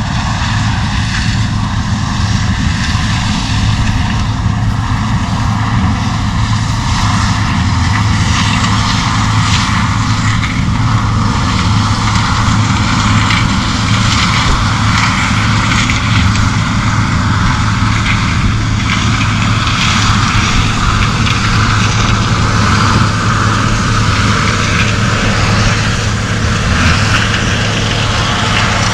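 1977 Gleaner L2 combine running steadily: a constant low engine drone under a loud, even rush of machinery noise.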